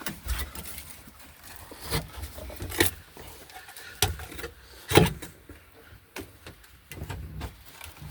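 Scattered knocks and taps from handling parts of a stripped car body and interior, the loudest about five seconds in.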